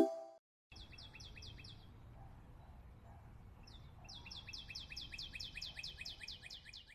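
A small bird singing rapid series of high, down-slurred chirps: a short run of about six notes, then a longer run of about twenty at six or seven notes a second. Under it is a faint low outdoor rumble.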